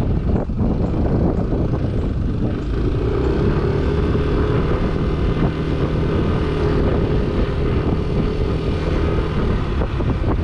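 Yamaha NMAX 155 scooter under way, with steady rumble and wind noise throughout. A steady hum comes in about three seconds in and holds.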